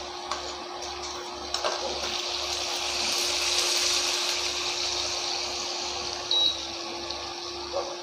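Chicken pieces sizzling in oil in a frying pan as the marinade's moisture cooks off, a steady hiss that swells a little midway. Under it is a steady low hum with an even pulsing of about two beats a second, and a short high beep comes about six seconds in.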